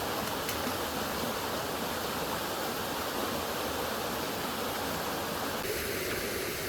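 Steady rushing noise with no distinct events; its tone changes abruptly near the end.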